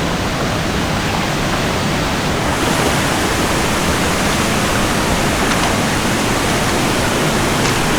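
Waterfall: a steady, loud rush of falling water, its hiss growing a little brighter about two and a half seconds in.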